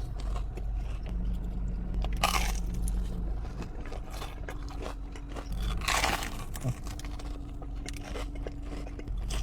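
Biting into a crunchy Korean corn dog and chewing, with many small crackles and two loud crunches, about two seconds in and about six seconds in.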